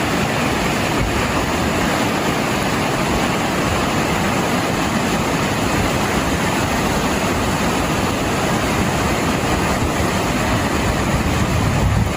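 Floodwater rushing in a steady, even noise with no breaks.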